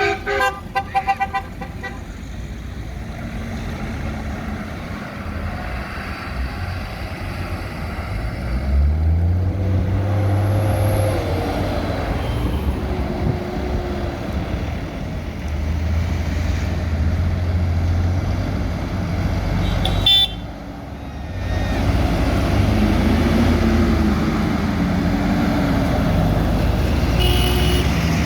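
A vehicle horn tooting in a quick run of short blasts, followed by the steady running of heavy tractor and truck engines passing, one rising in pitch as it pulls away about eight seconds in.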